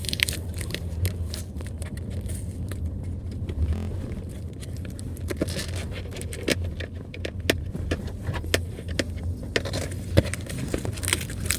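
Steady low rumble of a car cabin, with scattered small clicks and light rattles from handling things inside the car, and one sharper click about ten seconds in.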